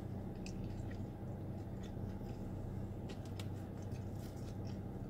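Quiet close-up chewing of a bite of fried egg roll, with scattered faint wet mouth clicks, over a steady low hum inside a car cabin.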